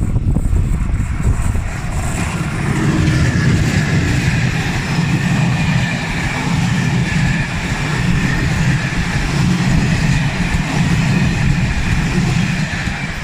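A train passing close by: a steady loud rumble of wheels on the rails, with a faint whine from the running gear, easing off at the end.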